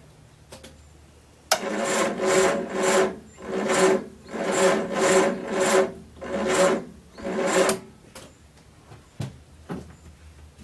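Triumph Spitfire's starter motor cranking its four-cylinder engine for about six seconds in slow, uneven pulses without it catching, then stopping. The battery is too dead to spin the engine properly.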